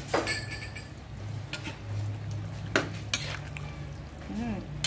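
Metal spoon stirring a thick stew in an aluminium pan, with several sharp clinks and scrapes against the pan's side and bottom. A low steady hum sits underneath.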